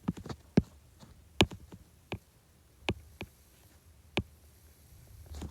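Stylus tapping on a tablet's glass screen while drawing in Procreate: about nine sharp, irregular taps over five seconds.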